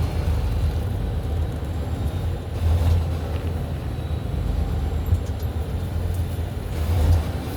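Semi truck on the move: the steady low drone of its diesel engine mixed with road noise, swelling briefly about three seconds in and again near the end.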